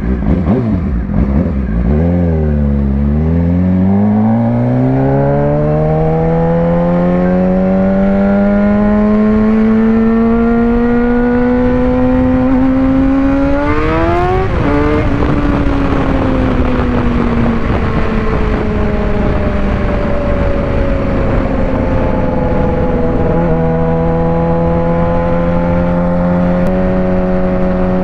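Suzuki GSX-R600 inline-four engine under way: it drops to low revs, then pulls with a smoothly rising pitch for about ten seconds. Around halfway it makes a quick upshift and the revs fall away, then it settles into a steady cruise with another gear change near the end, over steady wind and road noise.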